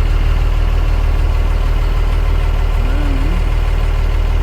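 Boat engine running steadily at a constant low speed, a loud, even low hum.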